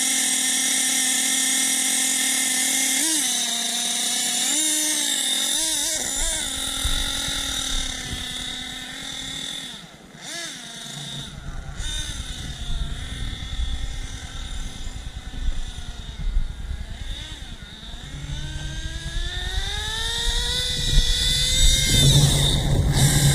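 Nitro engine of a Team Associated RC8B4.1 RC buggy running at high revs, its high whine dipping and recovering several times a few seconds in as the throttle changes. It fades and drops off around ten seconds in, then rises steadily in pitch and is loudest near the end as it accelerates.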